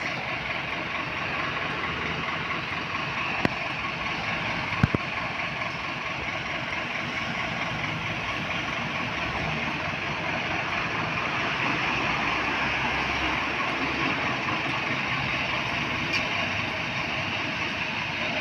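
Scania P410 fire engine's diesel engine running steadily, with a few short clicks about three and a half and five seconds in.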